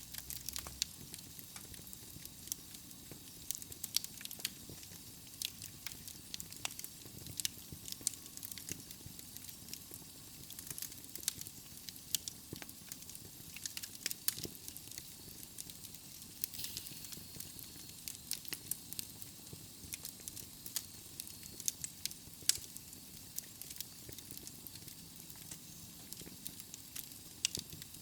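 Wood fire of burning logs in a fireplace, crackling and popping with many sharp, irregular snaps over a steady soft hiss.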